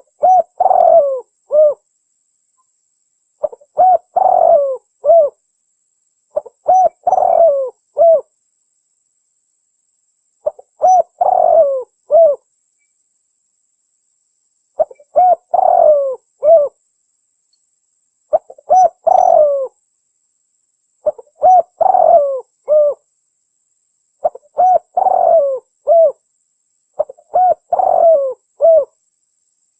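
Red turtle dove (red collared dove) cooing: nine short phrases of three or four low coos each, repeated every few seconds with silent gaps between.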